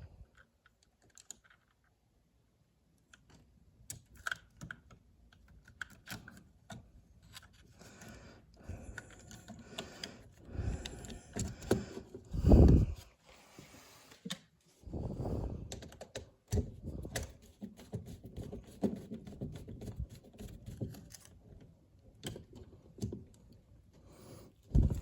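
Irregular light clicks and taps of hands handling low-voltage control wires, terminals and small parts, with a single louder knock about halfway through and some rustling handling noise after it.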